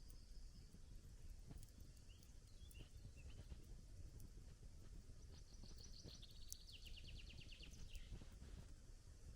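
Faint crackling of a wood campfire: scattered quiet pops over a low rumble. About five seconds in, a bird sings a rapid trill for roughly two seconds.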